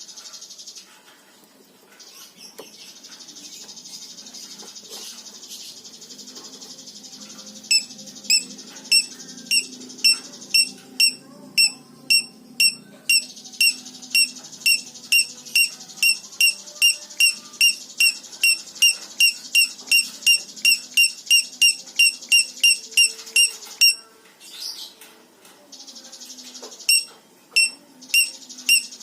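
Recorded small songbird calls used as masteran training audio for a lovebird: a fast, high buzzing trill with loud sharp chip notes repeating about twice a second over it, pausing briefly a few times.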